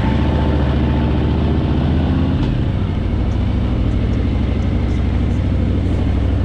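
Harley-Davidson Fat Boy's V-twin engine running steadily while riding, with a deep, even engine note.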